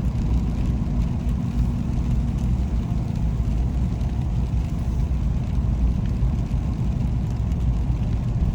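A car driving on wet roads, heard from inside the cabin: a steady low rumble of engine and tyre noise.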